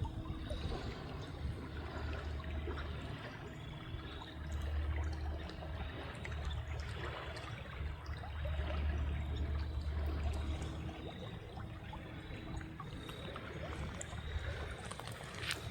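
Genesee River water flowing and trickling in a steady wash, with a low rumble swelling and fading a few times.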